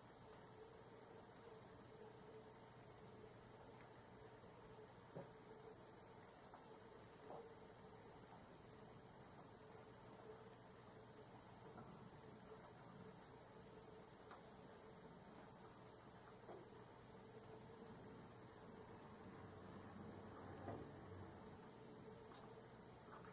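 Higurashi (evening cicadas) calling in a chorus: a steady, high-pitched ringing trill with pulsing phrases that waver and come and go.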